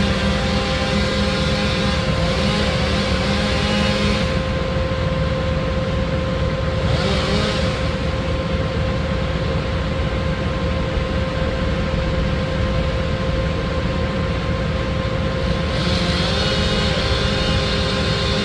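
Motorised tree-cutting equipment running steadily, a constant engine drone with a steady whine, with harsher noise rising for a few seconds at the start, briefly midway, and again near the end.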